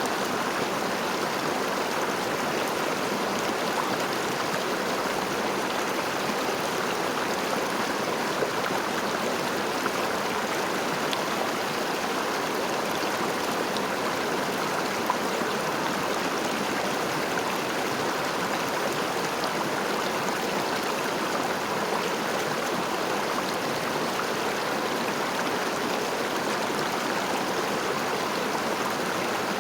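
River water flowing steadily over stones, an even rushing with faint splashes and gurgles.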